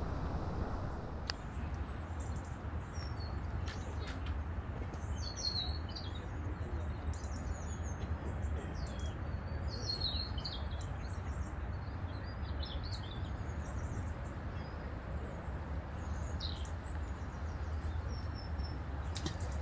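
Small songbirds chirping and twittering in short scattered phrases over a steady low rumble, with a few faint clicks.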